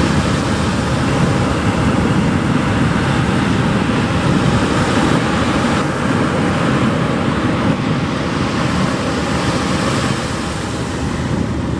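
Ocean surf breaking and washing up the beach, a continuous rushing noise, with sea wind on the microphone.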